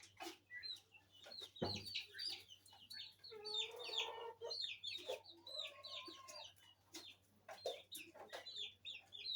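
Mixed flock of chickens and young poultry calling: rapid high cheeps run throughout, with longer, lower clucking calls about three and a half and six seconds in, and a brief low thump a little before two seconds in.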